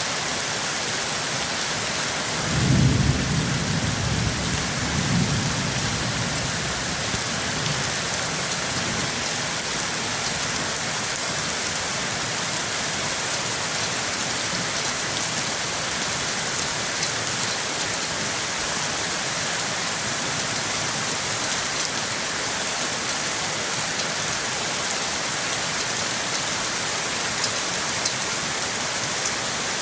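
Steady heavy rain falling, with a roll of thunder about two seconds in that rumbles for several seconds and fades.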